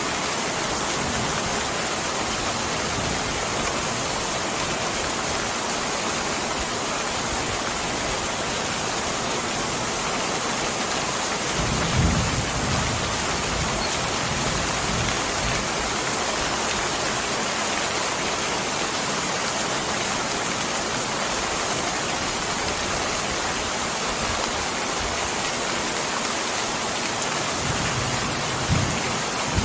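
Steady rain falling, an even hiss at a constant level, with a brief low thump about twelve seconds in and another near the end.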